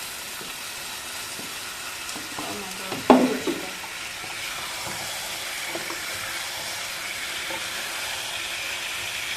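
Chicken sizzling as it fries in hot oil in a kadai with onion, tomato and spices, just added to the pan. There is one loud, sharp knock about three seconds in and a few light clicks.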